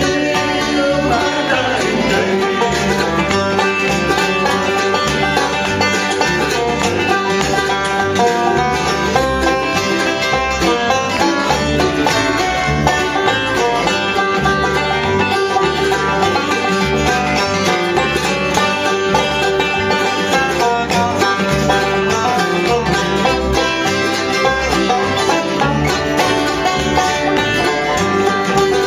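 Live bluegrass band playing an instrumental passage, banjo picking over guitar and a steady bass beat.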